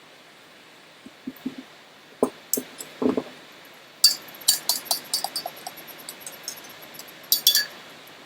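Kitchen utensils and dishes clinking and knocking in irregular, sharp clicks, starting about a second in and busiest in the second half.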